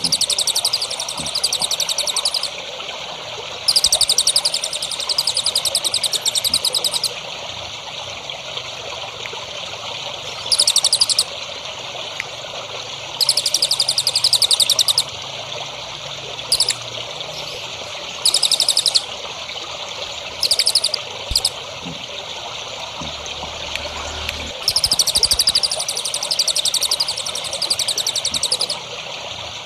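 Songbird singing in repeated bursts of rapid, high-pitched trilled notes, each lasting one to three seconds, over a steady trickle of running water.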